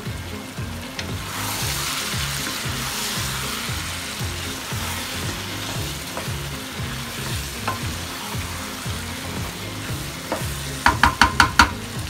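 Mutton and onion-tomato masala sizzling in a nonstick wok while a wooden spatula stirs and scrapes through it. Near the end comes a quick run of about six sharp taps.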